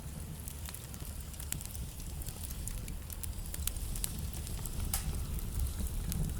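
Wood fire burning in a fireplace: a low steady rumble with scattered sharp crackles and pops, a few louder pops about a second and a half in and near five seconds.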